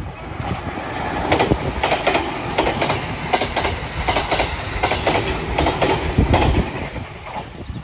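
JR Kyushu 787 series electric express train passing through a station at speed, its wheels clattering over the rail joints in a quick run of clacks over a low rumble. The sound builds about a second in and fades near the end as the train goes by.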